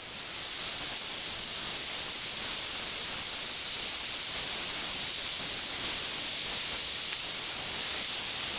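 Handheld gas torch burning with a steady hiss, heating a ring so it can be pressed on over a lip.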